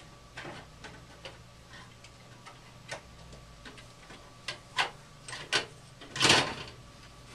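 Scattered light metal clicks and taps as gas furnace burner parts are handled and pulled out, growing busier in the second half, with a louder rattle about six seconds in. A faint steady hum runs underneath.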